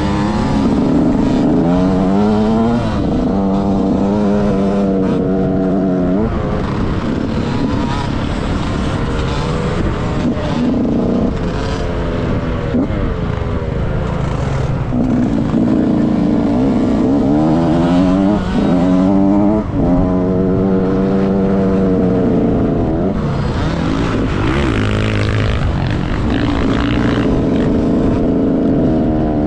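KTM SX 65 two-stroke motocross bike engine revving hard, its pitch climbing in repeated sweeps and dropping back as the rider shifts and eases off.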